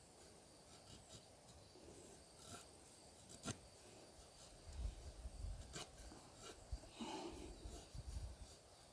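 Near silence with faint rustling and handling noise, a few light clicks and soft low bumps.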